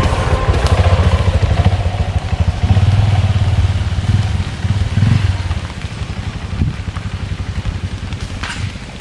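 A motorcycle engine running with a fast, even low putter, easing off after about six seconds.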